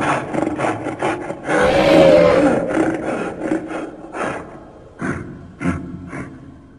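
Made-up dinosaur creature sound: a quick run of clicks and rasps, then one long wavering roar about a second and a half in, followed by a few scattered clicks.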